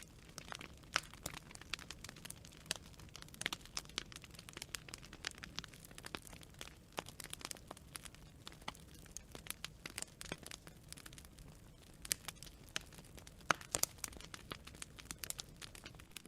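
Wood fire burning with dense, irregular crackling and popping, sharp snaps of varying size over a low steady rumble of the flames.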